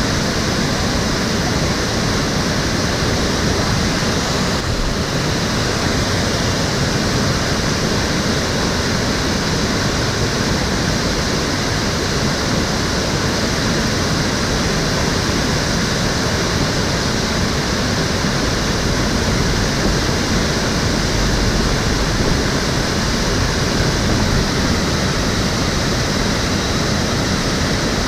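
Water of an urban stream flowing and splashing over a weir or rocks: a steady, loud rushing.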